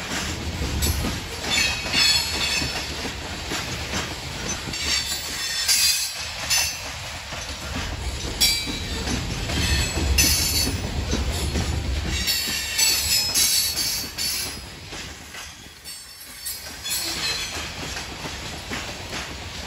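Loaded coal hopper cars of a freight train rolling past with a steady low rumble, the steel wheels giving off intermittent high-pitched squeals and rings.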